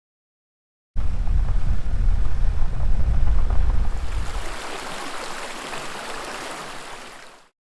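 Small stream babbling over a heavy low rumble. About halfway through the rumble drops away, and the flowing water goes on alone, getting quieter before it cuts off.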